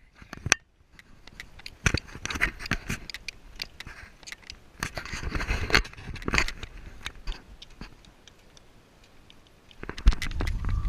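Irregular clicking, rattling and scraping noises, with a quieter stretch late on and a low rumble starting just before the end.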